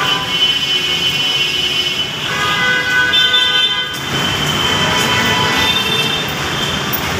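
Metro rail train running, with several steady high whining tones that shift pitch twice, over street noise that grows louder about four seconds in.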